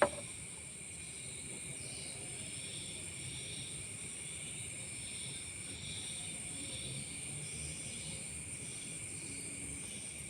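Night insects droning in a steady high whine, with short chirps repeating about twice a second. A single sharp click right at the start.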